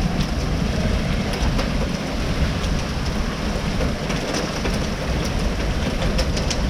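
Heavy rain and hail pouring down in a steady rush, with scattered sharp clicks of hailstones striking hard surfaces.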